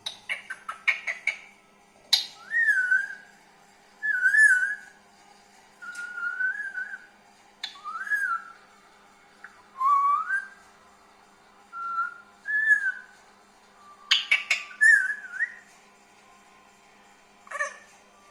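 Indian ringneck parrot giving a series of short whistles, about one every second or two, each sliding up and down in pitch. Quick runs of sharp clicks come at the start and again about fourteen seconds in.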